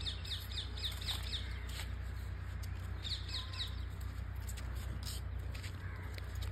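A small bird chirping a quick run of short repeated high notes about three seconds in, over a steady low hum, with a few faint clicks.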